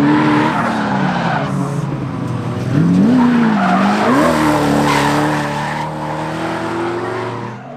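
Drift car sliding on track with its engine revving and tyres squealing. The revs fall and rise with the throttle through the first half, then are held high and fairly steady from about halfway.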